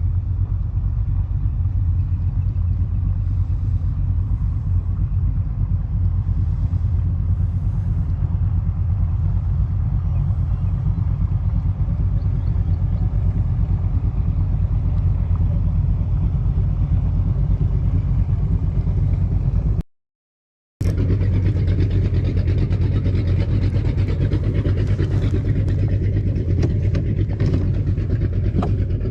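Steady low rumble of a vehicle in motion, an even drone with no speech over it, cut off by about a second of silence roughly two-thirds of the way through before resuming.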